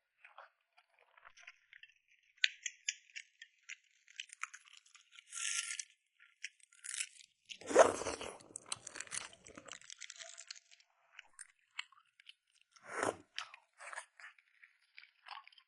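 Close-miked chewing and crunching of balut (fertilized duck egg), with wet mouth clicks; a louder bite about 8 seconds in and another near 13 seconds.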